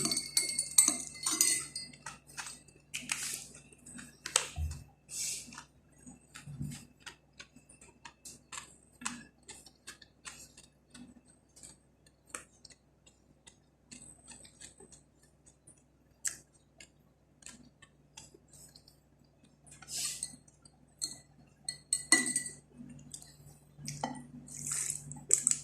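Utensils clinking and scraping against a plate and glass during a meal: scattered light clicks with some brief ringing clinks, over a steady low hum.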